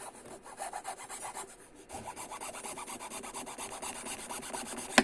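A small piece of bamboo chopstick being shaped for a ukulele repair by rapid back-and-forth abrasive strokes, a steady rasping scrape of several strokes a second. It ends with a single sharp click.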